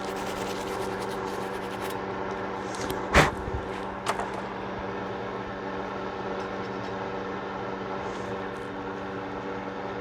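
A steady hum runs throughout. Over it come light rapid scraping ticks in the first two seconds, then a sharp click about three seconds in and a smaller one about a second later, from handgun parts being handled and cleaned.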